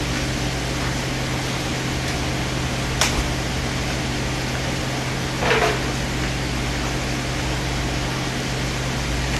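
Steady hum of kitchen ventilation and appliances. A single sharp knock comes about three seconds in, and a brief clatter of serving ware follows about five and a half seconds in.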